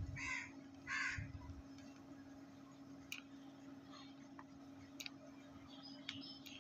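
Two short, harsh bird calls about a second apart, over a steady low hum, with faint high chirps near the end.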